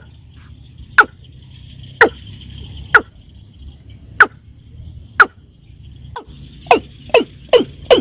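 Watercock calls used as a trapping lure: loud, sharp calls that each drop quickly in pitch, about one a second, speeding up to about two a second near the end, over a steady faint high hiss.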